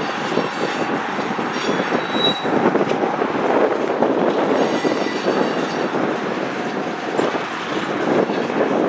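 Freight cars rolling past: tank cars and covered hoppers with a steady rumble of steel wheels on rail, with a couple of faint, brief high wheel squeals.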